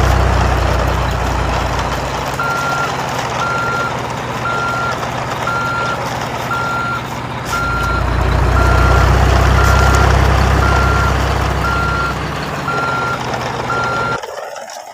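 A truck's reversing alarm beeping steadily, about once a second, over the low rumble of a heavy diesel engine that grows louder for a few seconds in the middle. The sound cuts off abruptly near the end.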